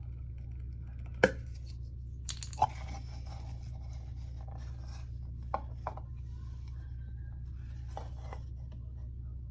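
Scattered sharp plastic clicks and taps as the drain-hose cap and a cup are handled at the bottom of a Samsung WF45H6300 washer, the loudest about a second in, over a steady low hum.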